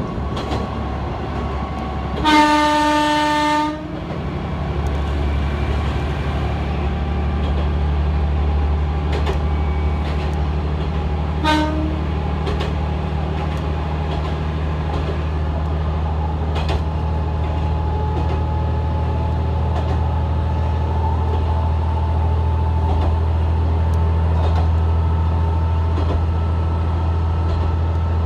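Joso Line diesel railcar running, heard from inside the car: a steady low engine drone with light clicks from the rail joints. The train's horn sounds one steady note for about a second and a half a couple of seconds in, then gives a short toot about eleven seconds in.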